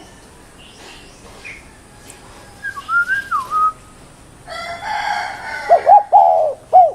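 Spotted dove (tekukur) cooing: three loud, deep, arched coos near the end. A gliding whistled call from another bird comes about three seconds in, and a louder harsh call begins about four and a half seconds in.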